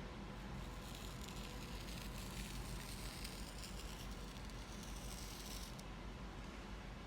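A finger tracing the letter S in a tray of sand, a faint rustling.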